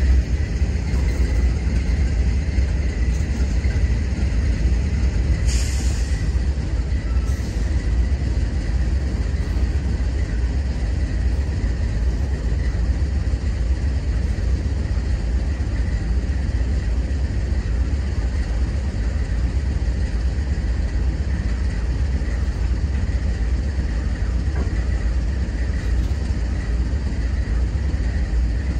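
Empty intermodal well cars of a CSX freight train rolling past, a steady low rumble of steel wheels on the rails. A brief high-pitched squeal cuts through about five and a half seconds in.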